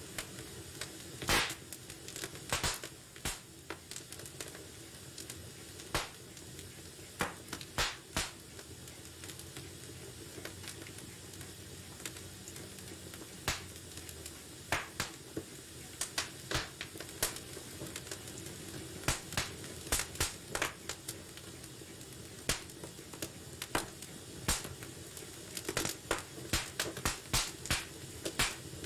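Wood fire in a fireplace crackling: irregular sharp pops and snaps over a steady low hiss, the pops coming thicker in the second half.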